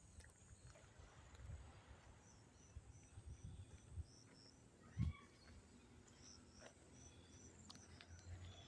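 Near silence, with faint, evenly spaced high insect chirps at about four a second, in two short runs. A soft thump comes about five seconds in.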